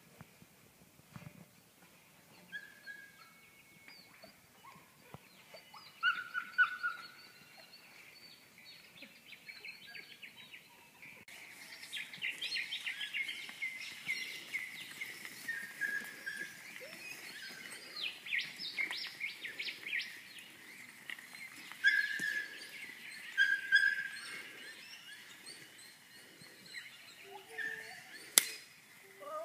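Wild birds calling outdoors: scattered calls at first, then a dense chorus of chirps and short whistled notes from about a third of the way in. There is a single sharp click near the end.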